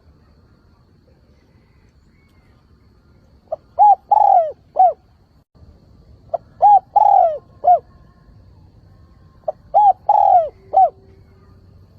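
Spotted dove cooing its song three times, about three seconds apart. Each phrase is a short pip, a coo, a longer coo that falls away, and a final short coo. It is a lure dove's call, used to draw wild doves in.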